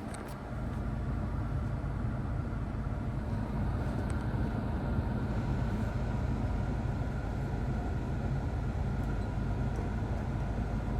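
The 2019 Infiniti Q60's 3.0-litre twin-turbo V6 running steadily, a low rumble with a faint even hum.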